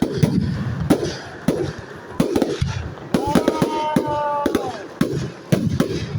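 Fireworks bursting in rapid, irregular bangs, many per second. About halfway through, a held pitched tone lasts over a second and drops at its end.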